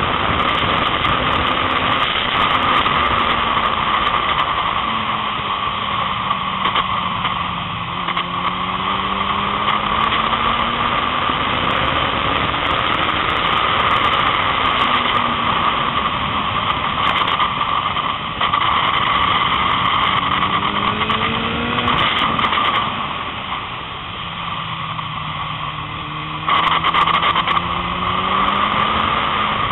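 Kawasaki ZX-9R's inline-four engine at speed on a track lap, its note falling as the bike slows into corners and climbing slowly again under throttle, over a steady rush of wind on the onboard microphone. The engine goes quieter for a couple of seconds, then jumps back louder near the end.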